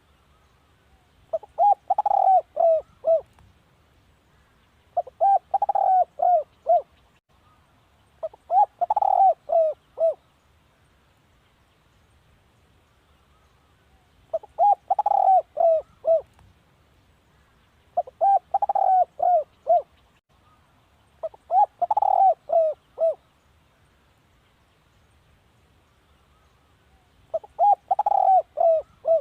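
Spotted dove cooing: seven phrases, each a quick run of four or five short coos, repeated every three to four seconds, with two longer pauses.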